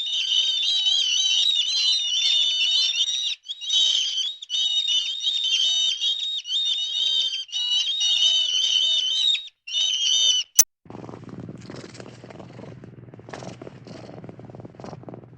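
A songbird singing rapid, high warbling phrases in several bursts with brief pauses, for about ten seconds. Then a sharp click and an abrupt switch to a low, rough, steady rumble.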